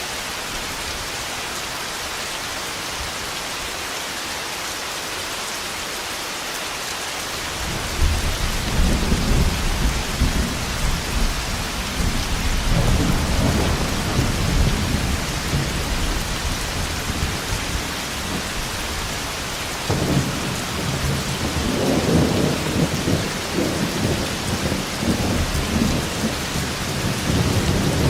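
Thunderstorm: steady rain with rolling thunder. A low rumble starts about eight seconds in, swells again around thirteen seconds, and returns sharply about twenty seconds in, growing louder after that.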